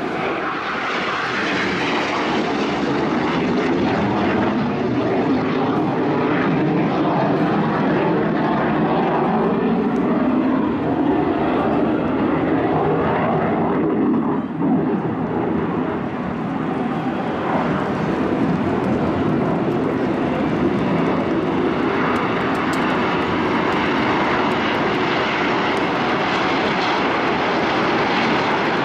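Jet aircraft of the Frecce Tricolori display team, Aermacchi MB-339 jets, flying past in a continuous loud rush of jet noise. The pitch sweeps slowly up and down as they pass, with a brief dip about halfway through.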